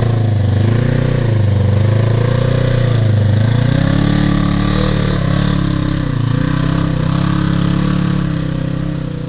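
Polaris RZR 900 side-by-side engine running under throttle, its pitch dipping and rising, climbing a few seconds in, holding, then easing off near the end.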